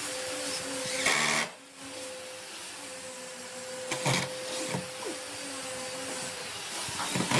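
A workshop machine running with a steady hiss and a faint steady hum. It swells louder about a second in, again around four seconds, and near the end.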